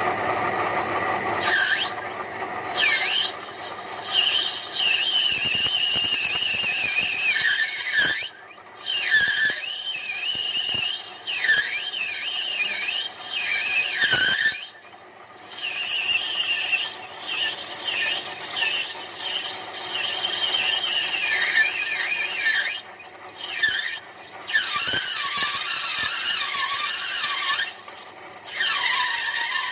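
Lathe tool cutting a brass shaft, giving a loud high squeal that wavers up and down in pitch. It breaks off briefly several times, about eight, fourteen, twenty-three and twenty-eight seconds in.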